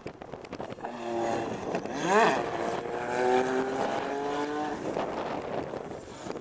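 Lotus Formula 1 car's engine at high revs going past. Its pitch swings sharply up and then down about two seconds in, then it holds a steady, slowly rising note before fading near the end.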